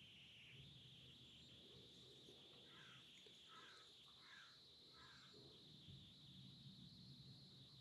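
Near silence: a faint steady high hiss, with four short faint chirps about two-thirds of a second apart midway through.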